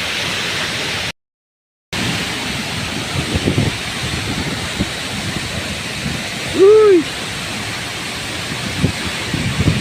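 Steady rush of a waterfall, cut off by a brief silence about a second in, then resuming. Near the middle a short rising-and-falling voice-like call stands out over the water.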